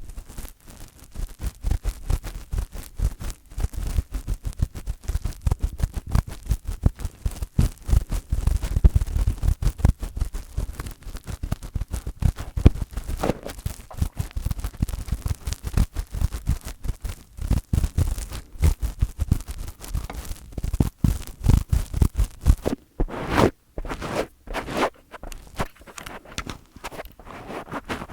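Fingers rubbing, tapping and scratching directly on a microphone, a dense run of quick irregular strokes with heavy low thumps from the handling.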